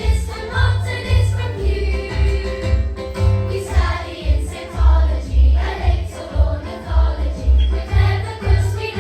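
Children's choir singing a song over backing music with a strong, regular bass beat.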